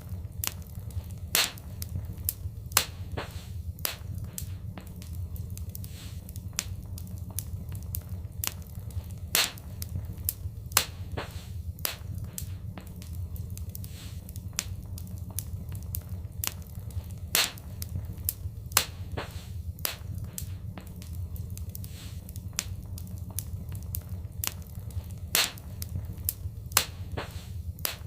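Wood fire in a fireplace crackling: frequent irregular sharp pops and snaps, a handful of them louder, over a steady low rumble.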